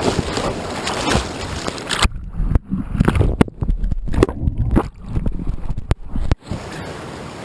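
Whitewater rapid rushing and splashing close to a kayaker, steady at first, then about two seconds in turning choppy with sudden muffled stretches and heavy sloshes; near the end it drops abruptly to a quieter, even rush.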